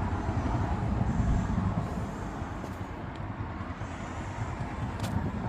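Steady low rumble of road vehicle noise, with a single short click about five seconds in.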